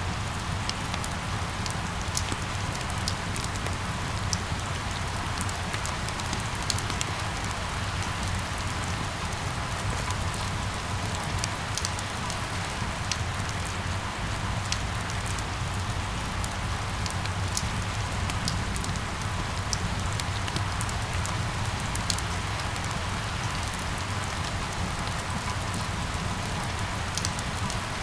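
Steady rain falling, with many small drops pattering and a low rumble underneath.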